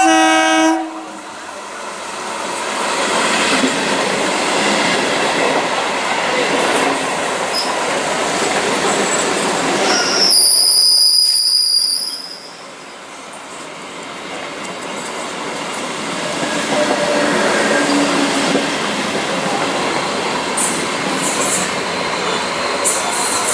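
Old electric multiple unit (EMU) local train: a short horn blast at the start, then the steady rumble and rattle of the train running past. About ten seconds in a high-pitched squeal lasts a couple of seconds, then the running noise builds again as the carriages pass close by.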